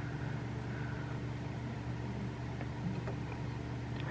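A heater running with a steady low hum, with a few faint clicks over it.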